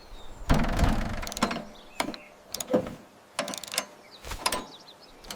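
A series of short mechanical clicks and clatters, about one every half second to one second, with no speech or music.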